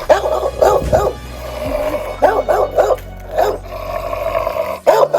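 A dog barking in short, repeated yelps, in clusters, over background music.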